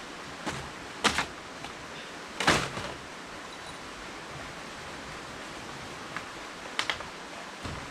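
A few sharp knocks, the loudest about two and a half seconds in and a quick pair near the end, over a steady hiss of background noise.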